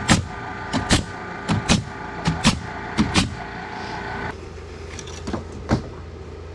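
Nails being driven into framing lumber: a run of sharp cracking impacts, often in quick pairs, then two more after a pause. Under them a steady motor hum with a held tone cuts off suddenly about four seconds in.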